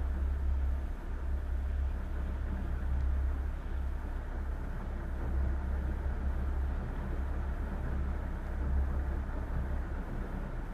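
Boat engine running steadily while under way, a low drone with a steady hiss of water and wind above it.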